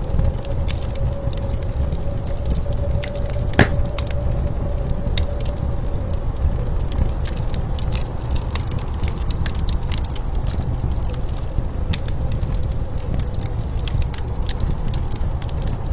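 Wood fire crackling with irregular sharp pops, one louder pop about three and a half seconds in, over the steady low rumble of blizzard wind with a faint whistling tone in it.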